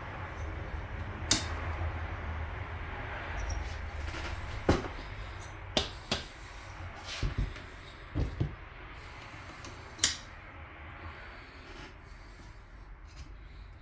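Scattered knocks and clicks, about ten in all, as outboard motor lower-unit parts are handled and fitted by hand, over a steady low hum.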